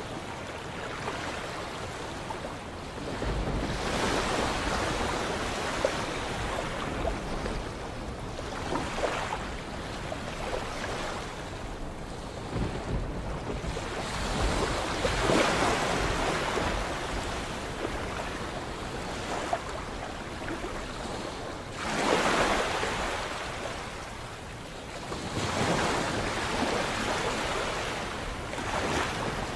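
Sea waves surging and washing in over a steady hiss, swelling loudest every four to seven seconds as each wave breaks.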